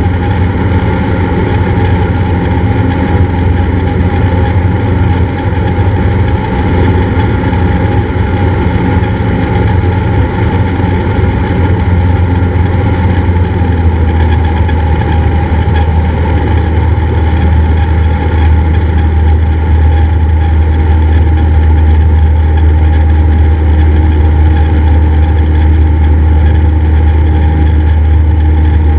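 Cessna 172's piston engine and propeller running steadily with a deep, even drone that gets a little louder in the second half.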